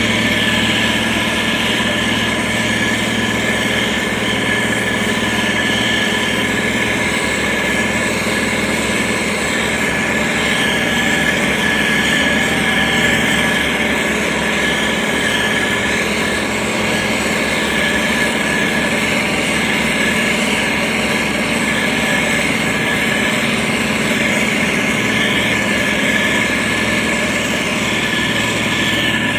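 Diesel engine of a SANY STG190C-8S motor grader running steadily, with a constant high whine over the engine note.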